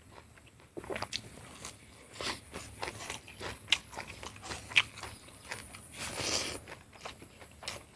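Close-miked chewing of food with wet mouth clicks and smacks, two of them sharper near the middle, and a longer rustling sound about six seconds in as a handful of rice is pushed into the mouth.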